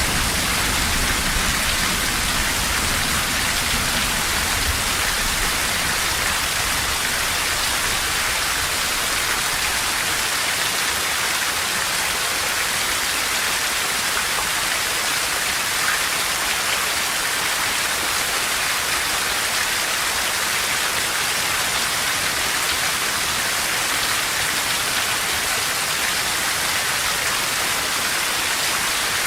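Steady heavy rain falling on a forest, an even hiss of drops. A low rumble of distant thunder fades away over the first few seconds.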